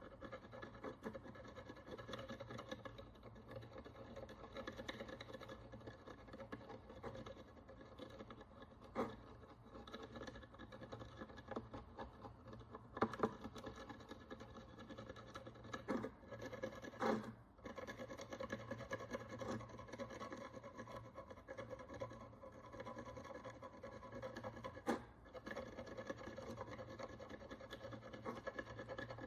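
Faint, steady scratching and scraping of a small hand tool working at the crust of dirt and oxidation on an ancient Roman bronze coin, with a few sharper taps spaced through it.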